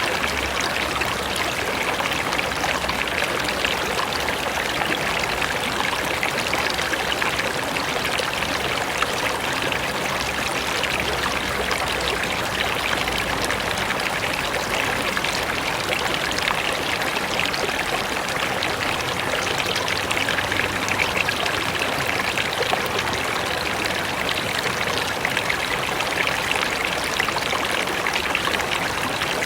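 Mountain river rushing and splashing over rocks, a steady, even rush of water without letup.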